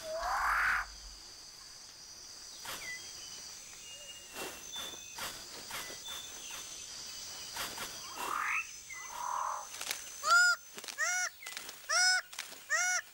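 Rainforest ambience: birds giving rising, swooping calls, then near the end a run of about five repeated arched call notes, roughly one a second, over a faint steady high insect drone.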